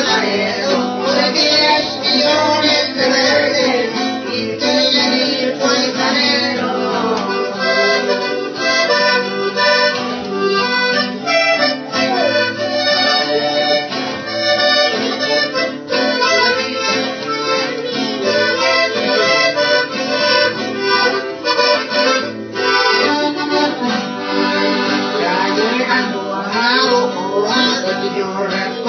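Accordion music with a steady melody and accompaniment.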